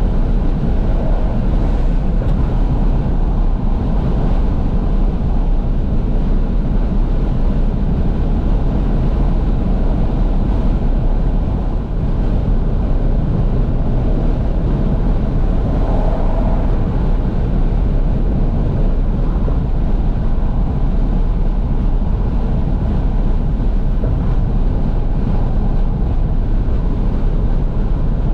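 Steady wind rushing in through the fully open windows of a moving 2012 Fiat 500S, heard from inside the cabin, with engine and road noise underneath.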